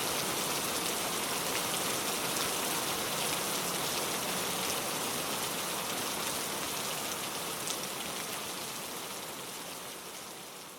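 Steady rain falling on a surface, a dense even hiss with fine drop ticks, fading out over the last few seconds.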